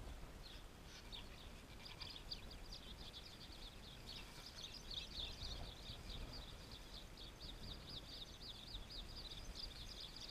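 A small bird chirping over and over in quick high notes, about three a second, growing stronger partway through.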